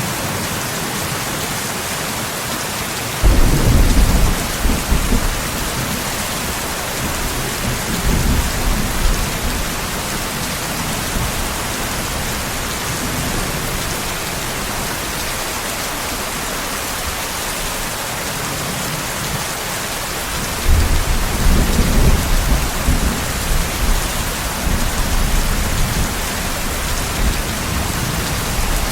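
Steady rain with two rolls of thunder. The first breaks suddenly about three seconds in and rumbles on for several seconds. The second comes about twenty seconds in and rumbles on to near the end.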